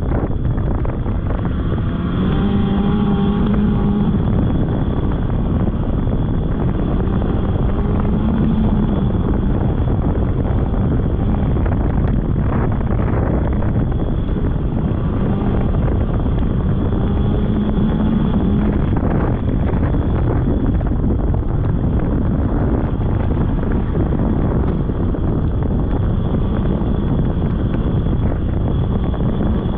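Polaris snowmobile engine running steadily while riding, its note swelling and easing a few times with the throttle, over heavy wind noise on the microphone.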